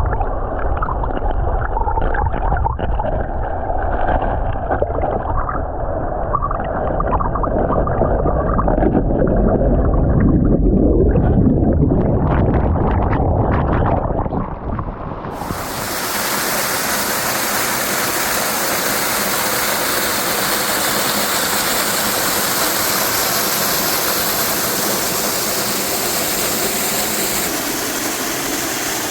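Rushing water of a small waterfall, Sanjō Falls, pouring into its plunge pool. It sounds muffled and heavy at first, then about halfway through it switches abruptly to a steady, brighter hiss.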